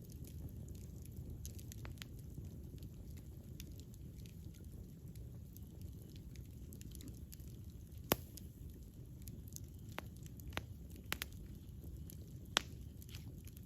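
Campfire burning with a steady low rumble, broken by scattered sharp crackles and pops of burning wood, the loudest about eight seconds in and again near the end.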